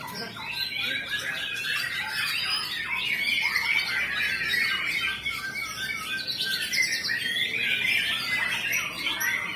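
White-rumped shama (murai batu) singing a rapid, varied song of overlapping notes without a break.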